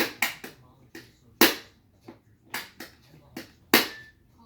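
Hard plastic toy pieces, Hot Wheels cars and track, clicking and clacking together in an irregular string of about a dozen sharp knocks. The loudest come about one and a half seconds in and again near the end.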